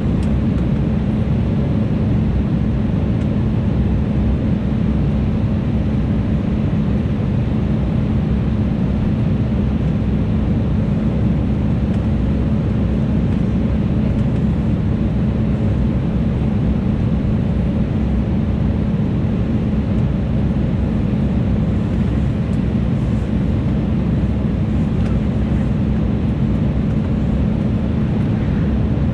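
Cabin noise of an Embraer E175 regional jet in flight on descent: a steady rush of airflow and the GE CF34 turbofan engines, with a constant low hum running under it.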